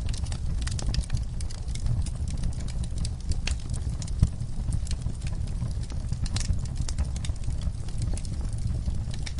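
Wood fire in a fire pit crackling and popping as logs and coals burn: frequent irregular sharp pops over a steady low rumble, with one louder pop about four seconds in.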